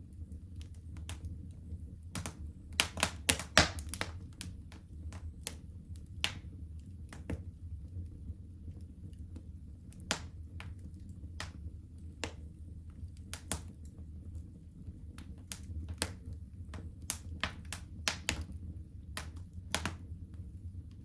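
Wood fire burning in a home fireplace: irregular sharp crackles and pops over a steady low rumble of the flames, with a quick cluster of loud pops about three seconds in.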